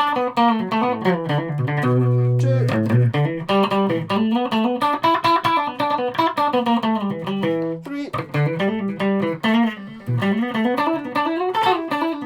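Electric guitar, a multi-pickup Stratocaster with its pickups wired in series, playing quick single-note runs that climb and fall, with a low note held about two seconds in. Playing stops briefly about eight seconds in as the pickup selector moves to the next position, then the runs start again.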